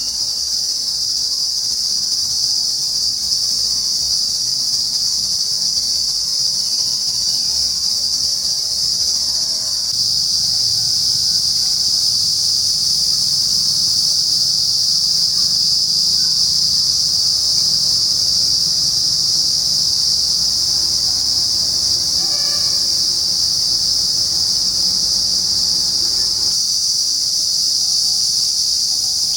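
Insects in trees by day, a dense chorus making one continuous, shrill, high-pitched drone that holds steady throughout.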